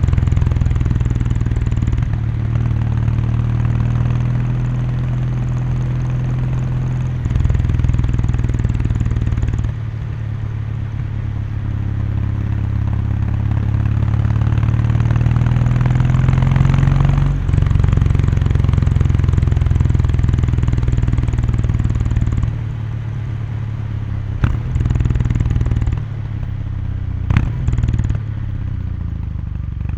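Exhaust note of a Kawasaki Meguro K3's air-cooled parallel twin under way at expressway speed. The engine note rises gradually through the middle, drops suddenly about halfway, and changes level a few more times, with two sharp clicks near the end.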